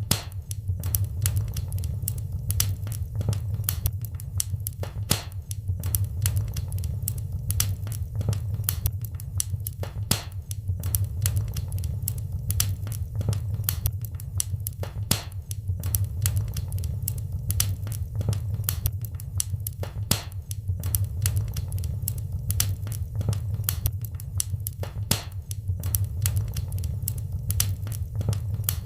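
Wood fire in a fireplace crackling: many irregular sharp pops and snaps, several a second, over a steady low rumble.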